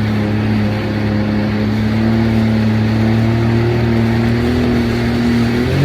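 Personal watercraft or boat engine running at a steady speed, a droning hum over rushing noise, its pitch shifting up right at the end.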